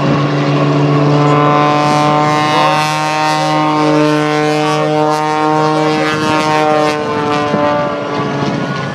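Display aircraft's engine noise, a loud steady drone with an even stack of tones that wavers slightly in pitch midway through.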